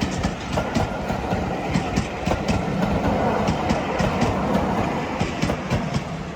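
A train running past, its wheels clicking over rail joints in quick, uneven succession; the sound fades near the end.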